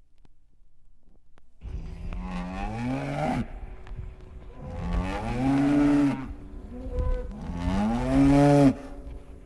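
Three long, low animal calls, each rising and then falling in pitch, with short pauses between them.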